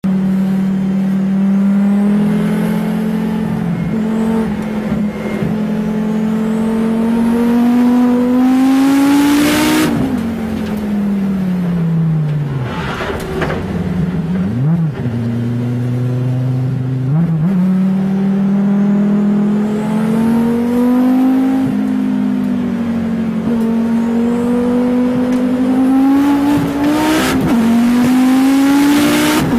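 A car's engine heard from inside the cabin, pulling hard with its pitch climbing steadily, dropping away around ten seconds in as the driver lifts off, then climbing again. Short bursts of hiss cut in about ten seconds in, briefly a few seconds later, and again near the end.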